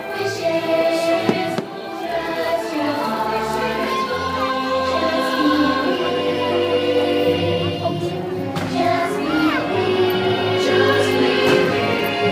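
Fireworks show soundtrack: orchestral music with a choir singing sustained notes. A few sharp bangs from the fireworks cut through it.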